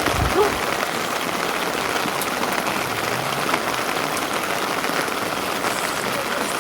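Steady rain falling, an even hiss with scattered faint drop ticks. A brief low thump right at the start.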